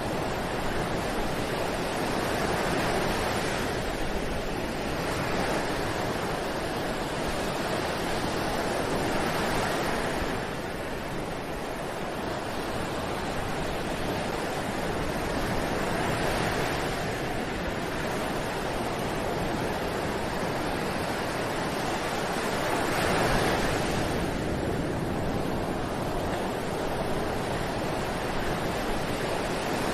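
Ocean surf: waves breaking and washing up a beach in a steady hiss that swells and eases every few seconds, strongest about three quarters of the way through.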